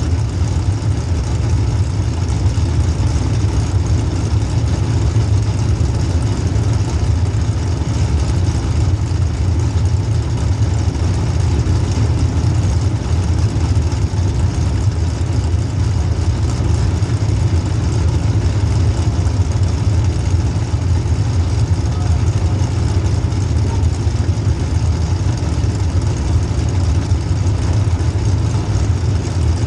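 Demolition derby car's small-block Chevy V8 running steadily at low revs.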